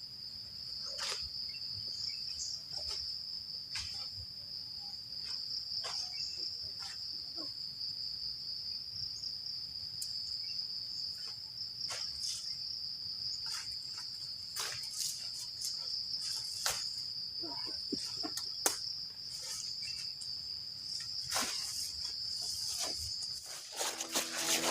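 Crickets chirring in a continuous high-pitched drone, with scattered sharp clicks and knocks over it; the drone cuts off about a second before the end.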